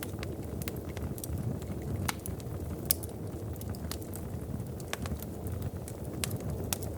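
Wood fire crackling: a steady low rumble of burning logs with scattered, irregular sharp pops, the sharpest about three seconds in.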